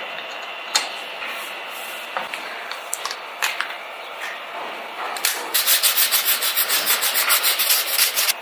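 Sandpaper rubbed by hand on a scale model car's body: a steady scratchy rubbing with a few small clicks, then quick, even back-and-forth strokes, about ten a second, for the last three seconds.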